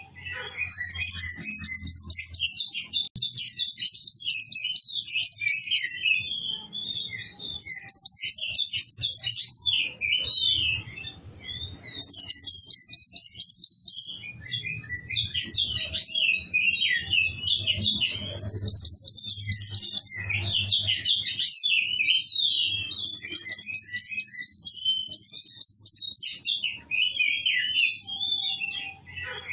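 Songbird singing continuously, in repeated bursts of fast, even trills that alternate with jumbled, rapid twittering. A steady low hum runs underneath.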